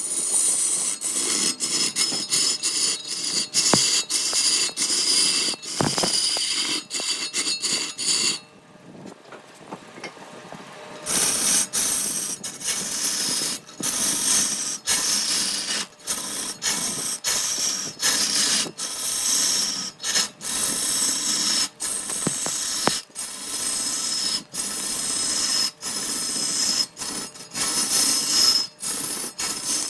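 Wood being abraded by a tool, sanding or rasping, as a rough scraping noise broken by frequent short gaps, with a quieter stretch of a few seconds about a third of the way in.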